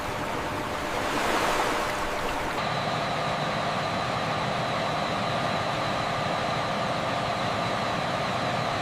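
Sea water washing, then about two and a half seconds in an abrupt change to a steady machinery drone with several fixed tones held over noise.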